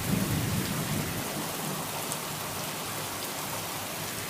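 Heavy rain mixed with small hail pouring down steadily, with a low rumble of thunder fading away in the first second or so.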